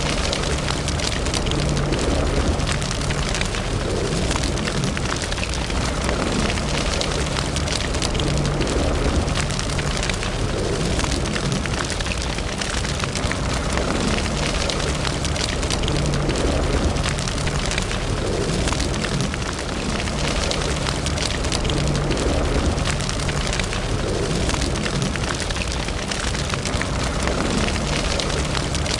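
Fire burning in a fireplace, crackling steadily with many small snaps over a low rumble.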